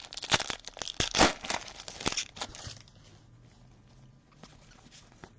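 Foil trading card pack wrapper crinkling and tearing, a dense crackle for the first half, then a few light clicks of handling.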